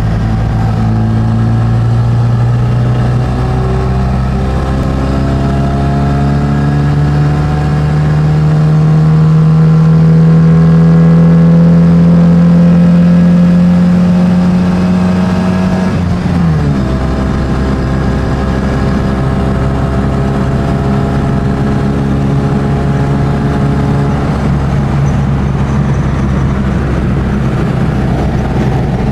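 Classic Mini 1275GT's Metro engine, heard from inside the cabin while driving. Its pitch climbs steadily for about sixteen seconds under acceleration, drops sharply at a gear change, then holds fairly steady at cruising speed.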